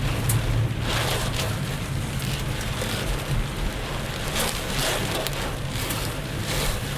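Heavy rain on a moving car, over a steady low hum of engine and road noise, with brief louder surges of rain and spray now and then.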